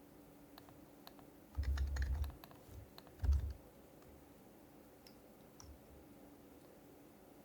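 Typing on an HHKB Professional Hybrid Type-S keyboard with silenced Topre switches: two short bursts of keystrokes with dull low thuds, about a second and a half in and again near the middle, and a few isolated soft key taps.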